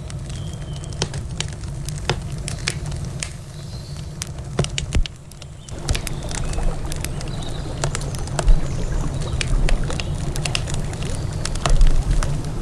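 Wood fire crackling, with many sharp pops scattered throughout over a steady low rush, easing briefly about five seconds in.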